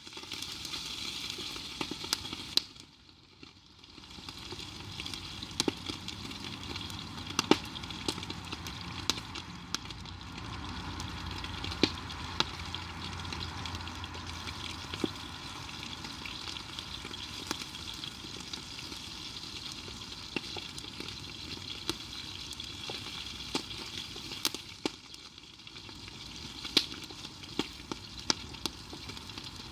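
Food sizzling and frying in a pan over a campfire: a steady hiss with frequent sharp pops and crackles, briefly quieter about three seconds in.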